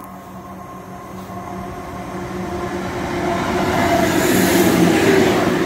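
ScotRail Class 170 Turbostar diesel multiple unit approaching and running through the station, its engine and wheel noise growing steadily louder to a peak about four seconds in as it passes close by. A steady low hum runs beneath the rising rush.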